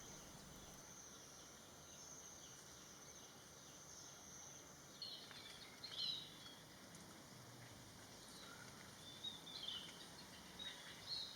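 Faint outdoor ambience: a steady high insect trill for the first few seconds, then a few brief bird chirps.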